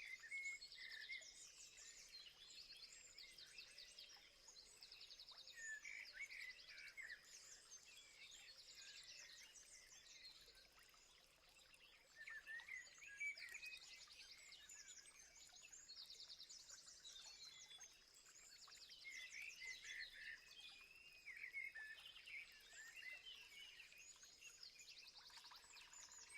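Faint chorus of several wild birds calling, with short chirps and repeated rapid trills overlapping throughout, over a thin steady high-pitched hum.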